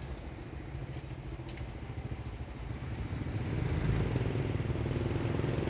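A motor vehicle's engine running, a low hum that grows louder through the second half.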